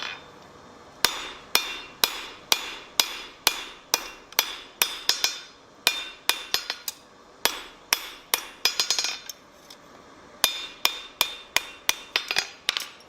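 Blacksmith's hammer striking on an anvil, forging steel: runs of blows about two a second with short pauses between runs, each blow ringing briefly.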